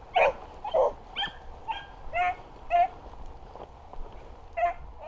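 Beagles barking on the track of a wounded rabbit they are closing in on: a string of short, pitched barks and yips about every half second, spacing out toward the end.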